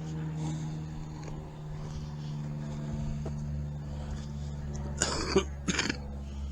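A man coughing twice in quick succession about five seconds in, over a steady low hum.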